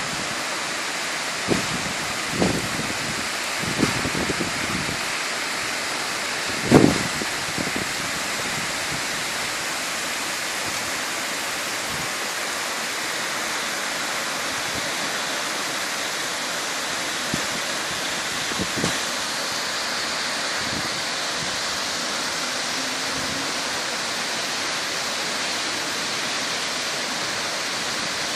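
Heavy rain from a thunderstorm as a steady, even hiss, broken by a few brief low thumps, the loudest about seven seconds in.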